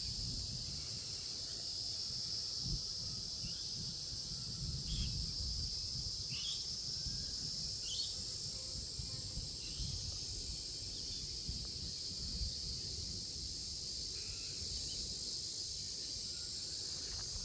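Steady high-pitched insect chorus, with an uneven low rumble underneath and a few short chirps scattered through the first half.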